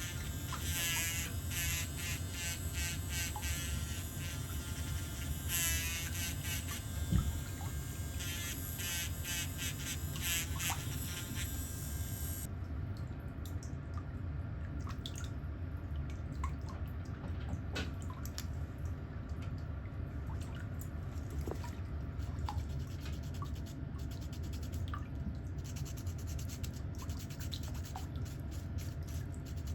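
An electric nail drill whining and buzzing against the toenail, its pitch wavering, stops about twelve seconds in. Afterwards only faint small clicks and scrapes are heard over a low steady hum.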